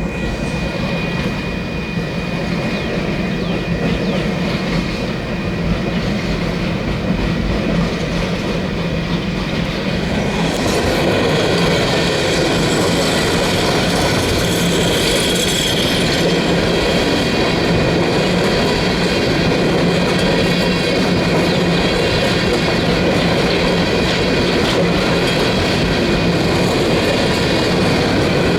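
Union Pacific freight train passing: diesel locomotive drone over the clatter of steel wheels on rail, growing louder about ten seconds in and then holding steady as the empty coal cars roll by, with some wheel squeal.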